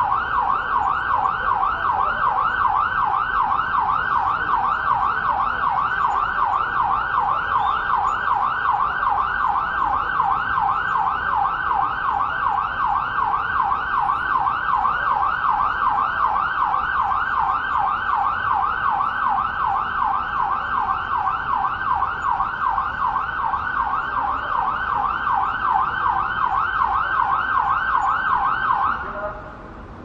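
Electronic emergency-vehicle siren in yelp mode: a fast, even up-and-down sweep about three times a second that stops shortly before the end.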